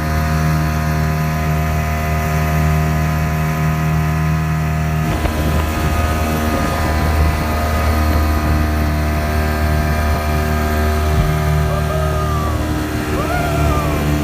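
Motorboat engine running steadily with a deep, even drone, a few short rising-and-falling calls heard near the end.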